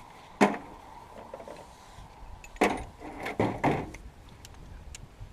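Hand tools and loose car parts knocking and clanking during dismantling: one sharp knock about half a second in, then a quick run of four knocks around three to four seconds in, with lighter ticks between them.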